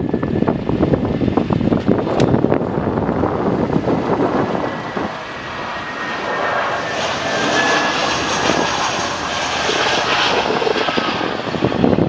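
Jet engines of an Airbus A319 airliner arriving to land: a continuous rush of engine noise that swells and turns brighter, with a faint high whine, from about seven seconds in.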